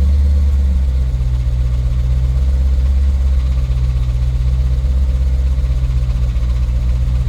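Hemi V8 idling in neutral, with the knocking noise that comes out of gear and goes away in drive under load: the sound of a broken flex plate.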